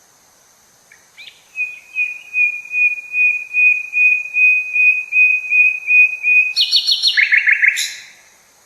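A songbird singing one long song: a run of pulsed notes on a single pitch, speeding up toward the end, then closing with a brief flurry of quicker, lower notes.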